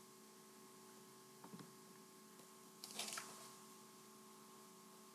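Near silence with a steady electrical mains hum, and a brief soft rustle about three seconds in.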